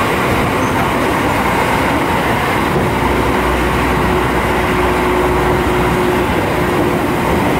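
Running sound heard inside a Seibu 9000 series electric commuter train car moving at speed: a steady rumble of wheels on rail. For a few seconds in the middle a steady hum rises over it, along with a deeper rumble.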